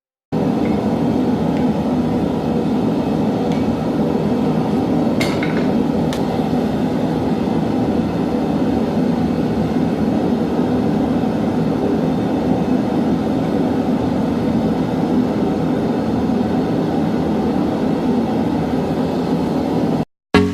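Forge running with a steady rushing noise, with a couple of faint metal clinks about five and six seconds in.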